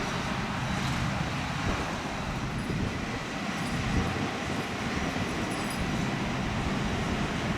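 Airbus A320's jet engines, a steady rumble with hiss.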